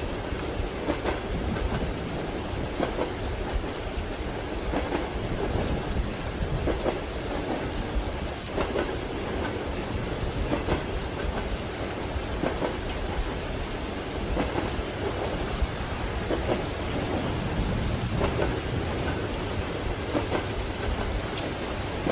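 Rain on a moving train carriage, with a low steady rumble and the clack of the wheels over rail joints coming back about every two seconds.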